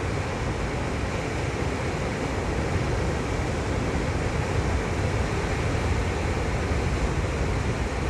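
Ocean surf breaking on the shore, a steady rushing noise with no single wave standing out.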